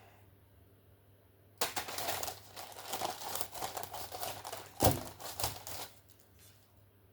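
Baking paper crinkling and rustling as it is handled, starting about a second and a half in and stopping around six seconds, with a sharp knock about five seconds in.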